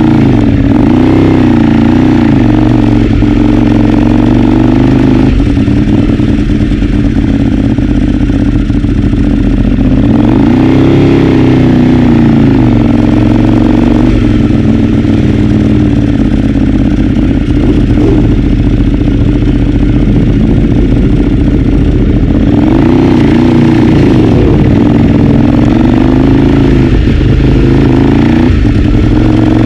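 Ducati 848's 90-degree V-twin engine, heard from onboard, running hard on track, its pitch rising and falling several times as it accelerates and slows through the corners.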